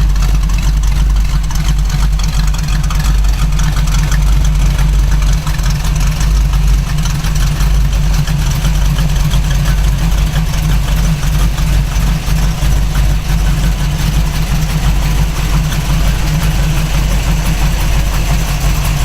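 1968 Camaro's 400 small-block V8 idling steadily through long-tube headers and dual exhaust.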